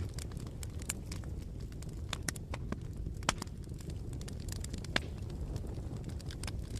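Bonfire crackling: irregular sharp pops and snaps, with the loudest about three and five seconds in, over a low steady rumble of the burning fire.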